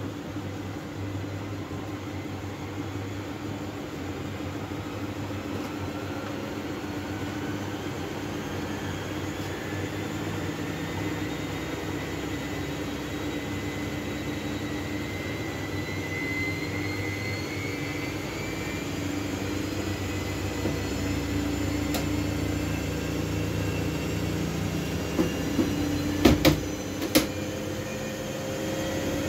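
Miele W433S washing machine running, its motor whine rising slowly in pitch as the drum speeds up over the first two thirds. Near the end come several sharp knocks, the loudest sounds, and then the motor starts winding up again.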